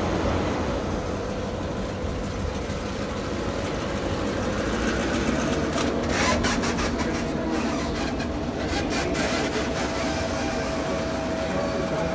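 Passenger coaches rolling slowly past on steel wheels, a steady rumble with clusters of clickety-clack as the wheels cross rail joints, about six seconds in and again around nine seconds.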